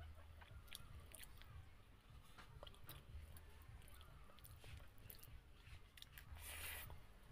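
Faint mouth sounds of a person eating rice and chicken curry by hand: soft chewing and small wet clicks of lips and tongue, with a short breathy noise about six and a half seconds in as another handful goes into the mouth.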